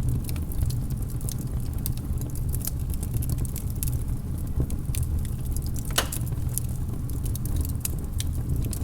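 Wood fire of burning logs crackling, with a constant low rumble and frequent sharp pops and snaps, one louder pop about six seconds in.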